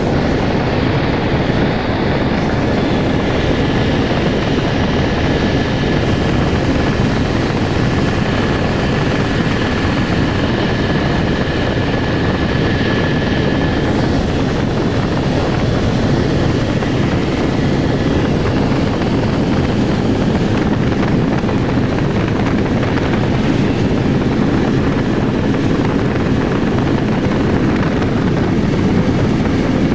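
Helicopter in flight: a steady, loud drone of rotor and engine. A faint thin whine sits above it through the first half.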